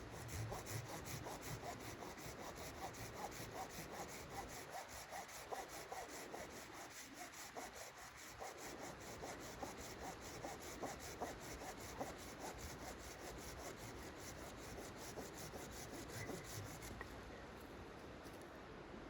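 Hand saw cutting wood in quick, even back-and-forth strokes that stop near the end.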